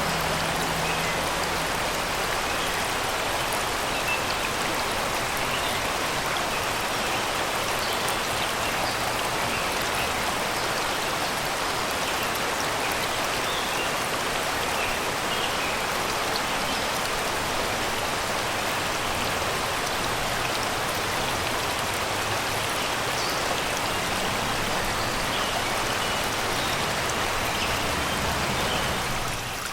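Shallow river running over rocks and stones: a steady, even rushing and babbling of water.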